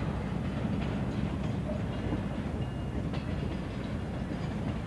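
Canadian Pacific work train rolling slowly past: a steady rumble of wheels on rail, with a few faint clicks and short squeals.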